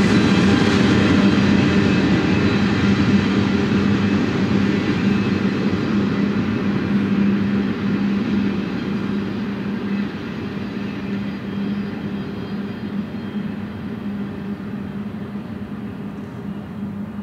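Double-stack intermodal container cars rolling on the rails, a steady rumble with a constant low hum, fading as the end of the train moves away.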